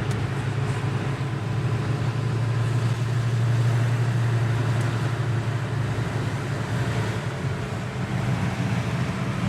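1968 Rover P5b's 3.5-litre V8 running steadily under way, a low even drone mixed with road noise.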